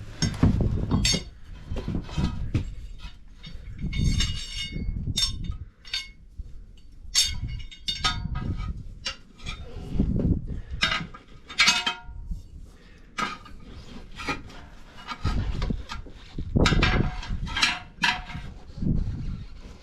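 Irregular metallic clanks and knocks with dull thuds, from hand tools and a tractor front wheel being worked on to get the worn tire off.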